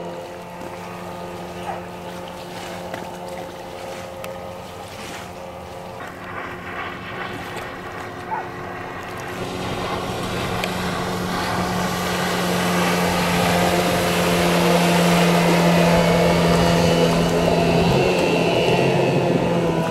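Outboard motor running at speed on an inflatable boat, with water and wind noise. It grows louder from about halfway through, and the engine note drops near the end.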